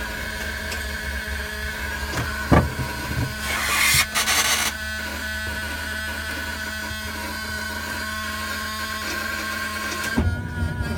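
Short spray hiss of aerosol ether starting fluid about three and a half seconds in, lasting about a second, over a steady multi-tone hum. A single sharp click comes just before the hiss.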